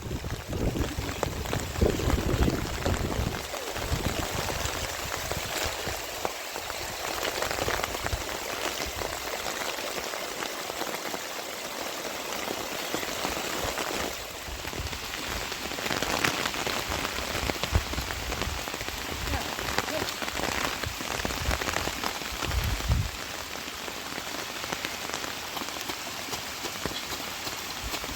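Steady rain falling: a dense hiss of drops with many individual drop ticks, and a few low rumbles near the start and about three quarters of the way through.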